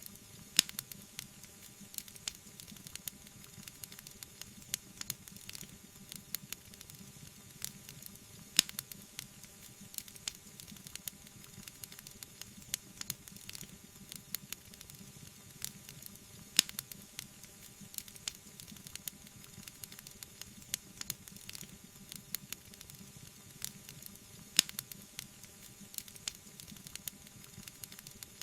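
Wood fire in a fireplace burning, with a steady soft hiss and frequent small crackles, and four louder pops about eight seconds apart.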